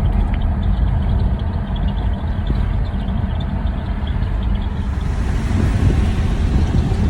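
Steady low rumble of road and engine noise inside a moving car, growing a little louder in the second half.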